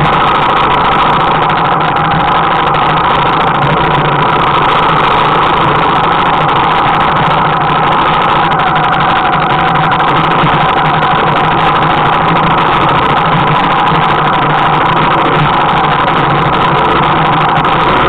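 Military trail motorcycle's single-cylinder four-stroke engine running at a steady, unchanging pace while riding along a rough dirt track, loud and close.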